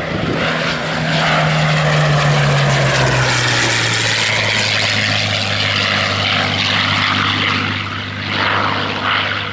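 Rolls-Royce Merlin V12 of a WWII fighter flying past. The engine note drops in pitch about three seconds in as it goes by, then holds steady and loud before easing off near the end.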